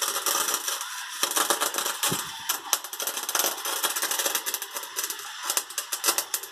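Wire-feed (MIG) welding arc crackling and spitting irregularly as a weld bead is laid.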